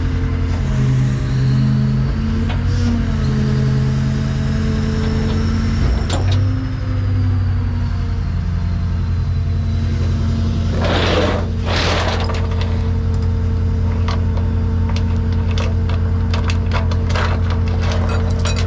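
A truck engine running steadily, its pitch shifting briefly a couple of times, with a faint high whine rising and falling. About eleven seconds in come two short rushing bursts, then a string of metallic clinks and rattles of tie-down chains being handled.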